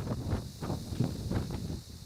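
Wind buffeting the microphone of a handheld camera on a moving jet ski, in irregular low thumps several times a second.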